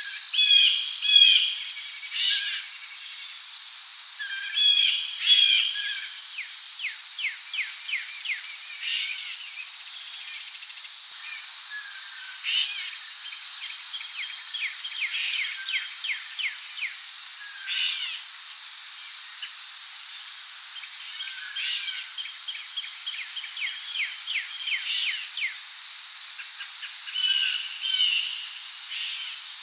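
Rainforest ambience: a steady high-pitched drone of insects with many short, repeated bird calls and chirps over it, and now and then a run of quick ticking calls.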